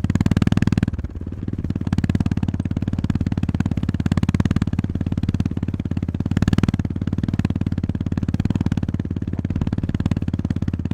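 Honda GB350S's single-cylinder engine running under way, its firing pulses close and even. The throttle eases off briefly about a second in, then the engine pulls again steadily.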